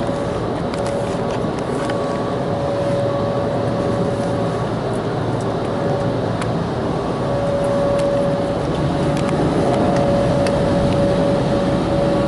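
Car wash tunnel machinery heard from inside a closed car: a steady rumble and hiss with a steady whine that drops out now and then, a few faint ticks, growing slightly louder past the middle.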